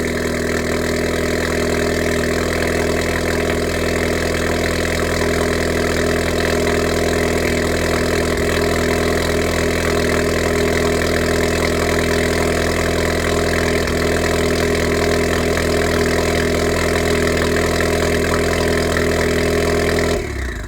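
Honda Civic Type R FK8's 2.0-litre turbocharged four-cylinder idling steadily through a Remus cat-back exhaust with its valve open and a catless downpipe. The sound cuts off near the end.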